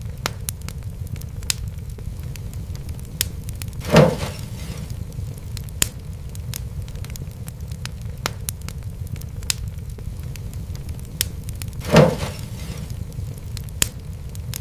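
Wood fire crackling in a fireplace: a steady low rumble under frequent sharp pops, with two louder, fuller pops about eight seconds apart.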